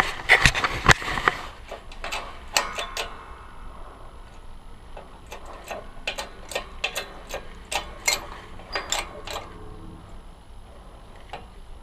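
Irregular metal clicks and taps from tools and a socket as a new wheel bearing is pressed into a scooter rim. A dense run of loud clicks in the first second and a half, then scattered lighter ticks.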